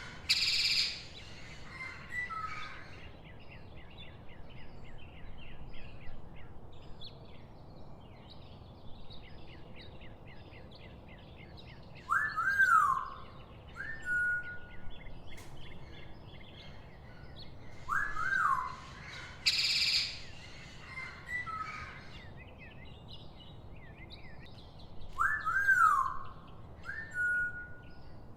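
Birds calling over a steady outdoor background: a short rising-and-falling call repeats about every six to seven seconds, with a stream of small high chirps between. Two brief harsh, noisy calls stand out as the loudest sounds, near the start and about two-thirds of the way through.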